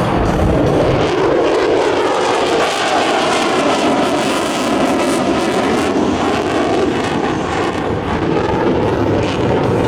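F-35B fighter jet flying past, its single turbofan engine loud and continuous, the pitch gliding down and then back up as it passes.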